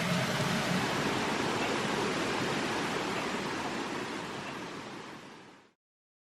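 Steady rushing noise, fading out over the last two seconds to silence. A faint low hum dies away in the first second.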